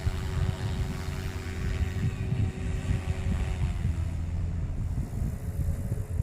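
Wind buffeting the microphone over the steady whine of a GOOSKY RS4 Venom RC helicopter's electric motor and rotor blades. The whine fades out about four seconds in.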